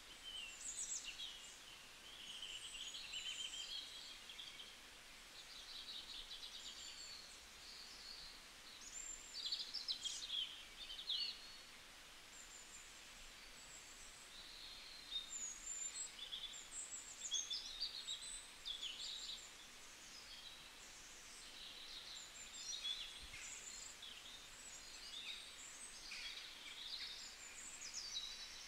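Several small birds chirping and twittering, short high calls that overlap, over a faint steady hiss.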